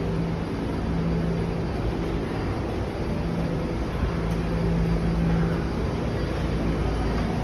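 Steady rumble of a moving vehicle, with a constant low hum under it.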